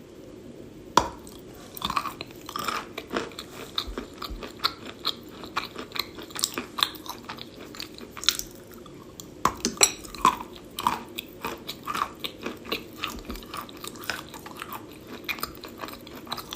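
Close-up chewing of a piece of chalk softened in hot water. It makes a run of irregular, soft crunches and wet clicks that begins about a second in and continues steadily.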